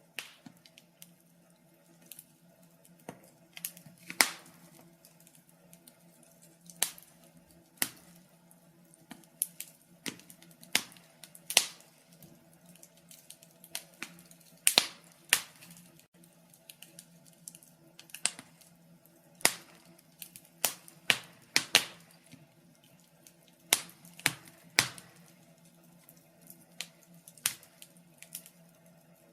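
Wood fire crackling: sharp pops and snaps at irregular intervals, some in quick pairs, over a faint steady low hum.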